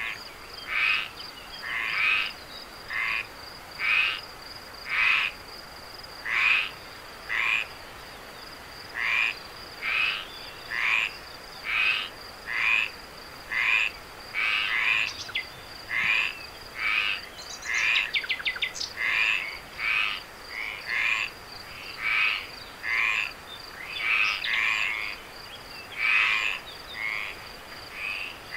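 A frog calling over and over, about one call a second, over a steady high-pitched drone of night insects. A brief rapid clicking trill comes about two-thirds of the way through.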